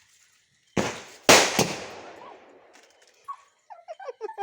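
Small bidi firecrackers going off: three sharp bangs within about a second, the middle one loudest, their echo dying away over the next second or so.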